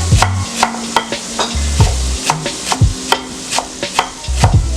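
Knife chopping fresh herbs (cilantro and parsley) on a cutting board: quick, uneven knocks, about three to four a second.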